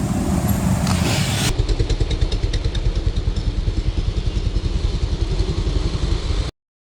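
A vehicle engine: a falling pitch as it passes, then after a cut a low engine note pulsing rapidly and evenly, about nine beats a second, which cuts off suddenly near the end.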